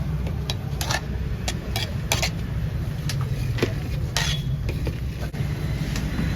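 Metal dishes and serving utensils clinking irregularly, a dozen or so sharp clinks, over a steady low rumble.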